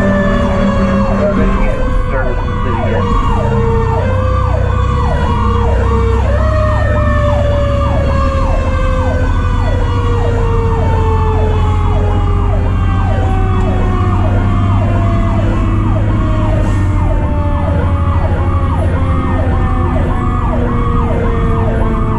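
Fire truck's sirens: an electronic siren cycling rapidly, about two sweeps a second, over the slowly falling wail of a mechanical Q siren that winds down and is spun back up twice in the first seven seconds. The truck's engine runs underneath.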